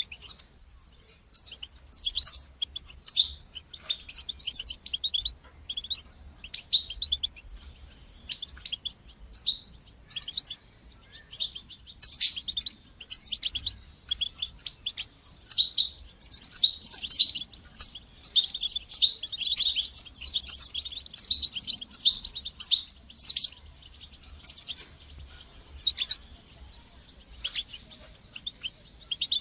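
European goldfinch singing: a rapid, twittering run of short, high tinkling notes and calls in irregular bursts, densest in the middle of the stretch.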